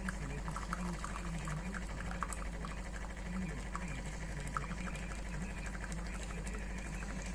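De'Longhi Specialista Prestigio espresso machine running with a steady hum, with liquid pouring and gurgling through it.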